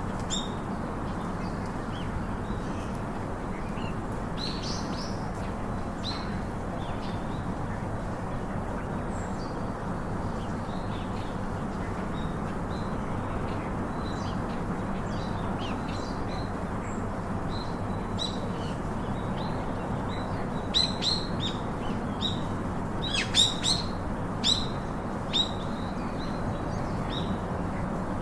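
Birds chirping and calling in short, high notes, scattered throughout and busiest about three-quarters of the way through, over a steady background hiss.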